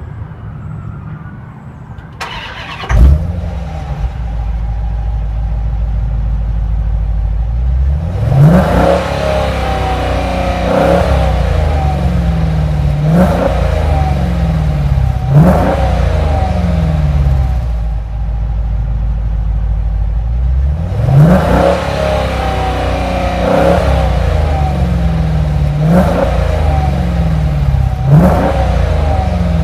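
2015 Dodge Challenger R/T's 5.7-litre Hemi V8 starting about three seconds in with a loud flare, then idling. Over the idle it is revved in short blips, four in a row, a pause, then four more, its exhaust note rising and falling with each.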